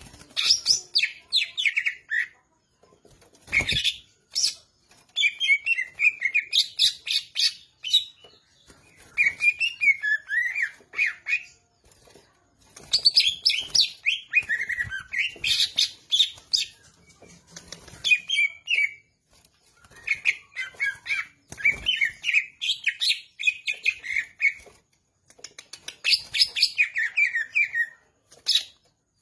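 Cucak ijo (green leafbird) singing in fast, varied runs of chirps and whistles, in bursts of a few seconds separated by brief pauses.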